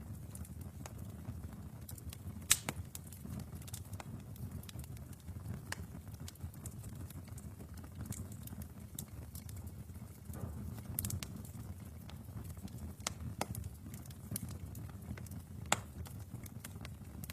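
Wood fire burning in a fireplace: a steady low rumble of flames with irregular crackles and snaps, and two louder pops.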